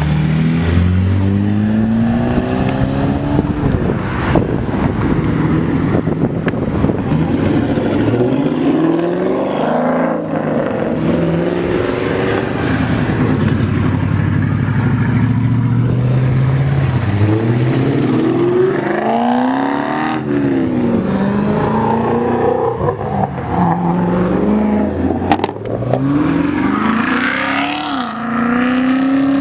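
Car engines revving and accelerating away one after another, several at once. Their pitch climbs repeatedly and drops back at the gear changes.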